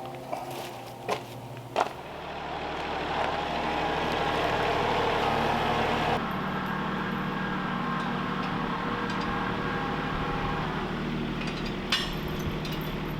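A few sharp knocks, then an engine starts running steadily about two seconds in, its note shifting slightly around six seconds in.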